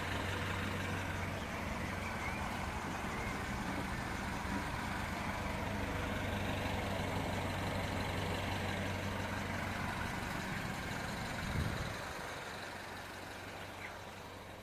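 Peugeot RCZ 1.6 THP turbocharged four-cylinder petrol engine idling steadily, then stopping near the end after a brief swell.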